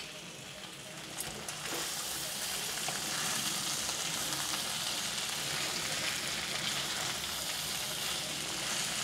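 Spiced chickpea, potato and tomato masala sizzling in a steel kadai on a gas flame while a spatula stirs it. The sizzle is a steady hiss that grows louder about two seconds in.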